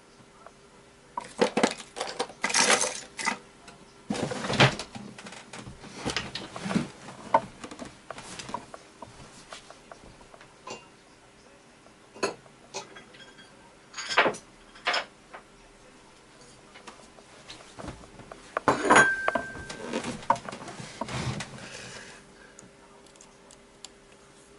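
Clicks, clinks and short rattles of small plastic and metal parts and tools being handled while an RC toy helicopter is taken apart, coming in irregular bursts, loudest near the start and again about three quarters of the way through.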